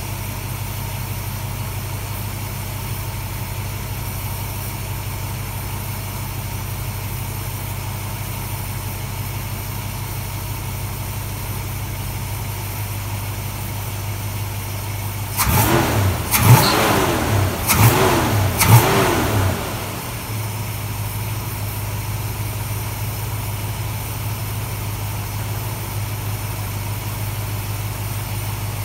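1969 Dodge Charger engine idling steadily while its carburetor is tuned, revved three times in quick succession about halfway through, then settling back to idle.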